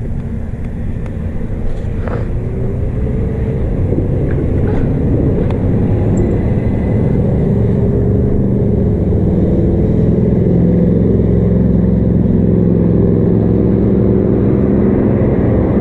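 Wind and road noise on an e-bike rider's action camera while riding along a street, building steadily louder as the bike picks up speed, with passing motor traffic.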